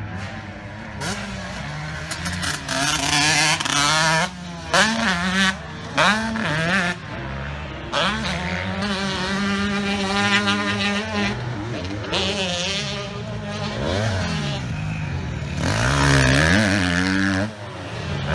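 Single-cylinder four-stroke engine of a KTM 250 SX-F motocross bike on the track, its revs repeatedly climbing and dropping through throttle blips and gear changes, with several short loud surges of throttle.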